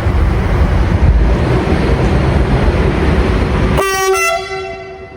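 A train passing with loud, steady rumbling rail noise. About four seconds in, the noise cuts off abruptly and a train horn sounds a short note, which then fades away.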